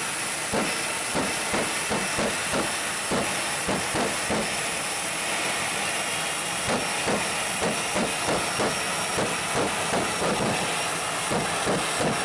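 Jet dragster's turbine engine running with a steady, hissing rush and a rhythmic train of soft puffs, roughly two a second.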